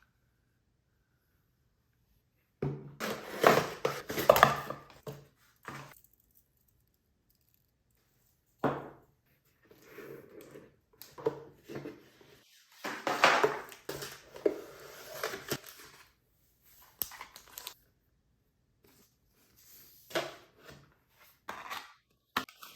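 Unboxing packaging being handled, with rustling and tearing and a few light knocks. The sounds come in short spells with pauses between them, starting a few seconds in.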